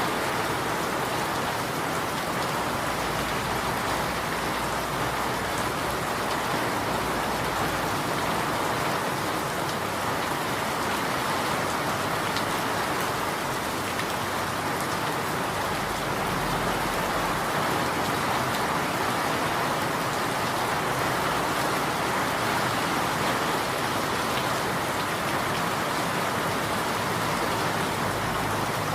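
Steady rain falling, a continuous even hiss of drops with no let-up.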